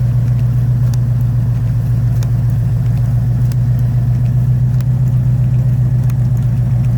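A vehicle engine idling steadily: a low, even drone with a few faint clicks over it.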